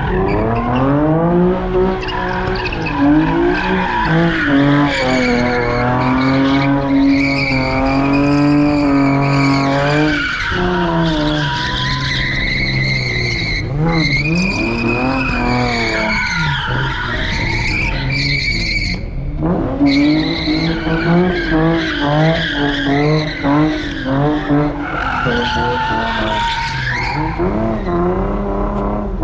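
A car engine revving hard with tyres squealing as the wheels spin. The engine's pitch keeps rising and falling, and the squeal stays loud throughout.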